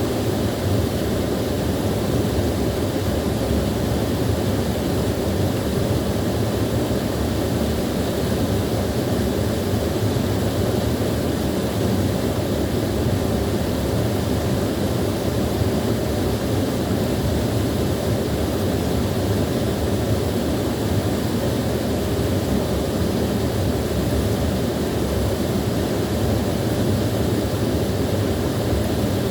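Small waterfall splashing and rushing steadily, a continuous even roar of falling water.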